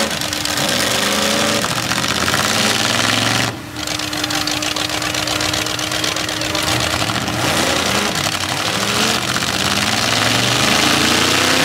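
Several demolition derby cars' engines running and revving at once, loud and continuous, their pitches rising and falling, with a brief dip about three and a half seconds in.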